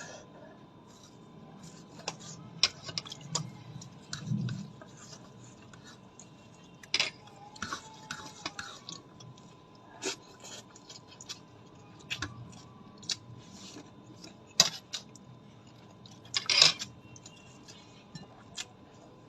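Cutlery and dishes clinking and scraping at a meal, in irregular sharp clicks and short rattles, with the loudest clatter near the end.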